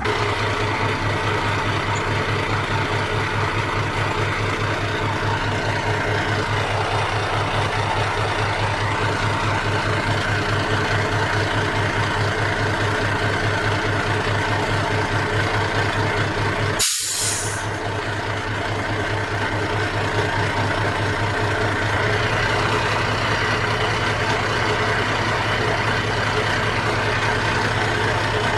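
Heavy diesel engine running steadily, with an even, fast firing pulse. About two-thirds of the way through comes one short hiss of released air, typical of a truck's air brake.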